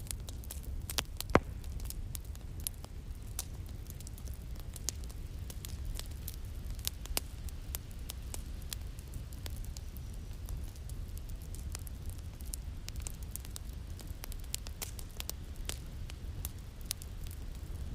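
Fireplace fire crackling: scattered sharp pops over a low steady rumble, with one louder pop about a second and a half in.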